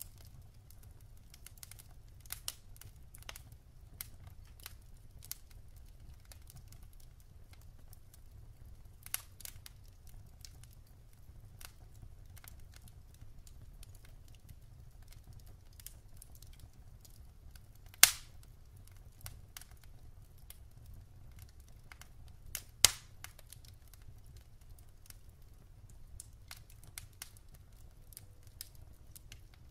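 Wood fire crackling in a fireplace: scattered small crackles with two sharp, loud pops, one about eighteen seconds in and another some five seconds later, over a low steady rumble.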